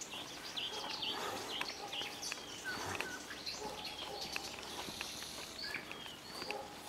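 Nightingale singing: a run of varied short whistles, chirps and sharp clicks.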